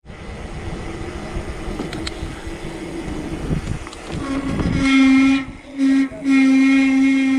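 A horn sounding in three blasts, long, short, then long, over a rumble of wind and road noise.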